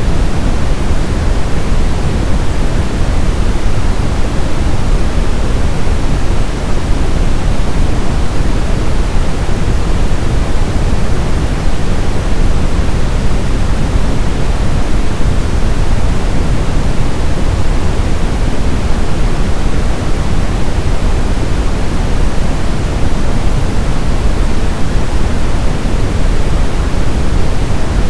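Brown noise: a steady, loud, deep hiss with most of its energy in the low rumble, evenly sustained with no changes.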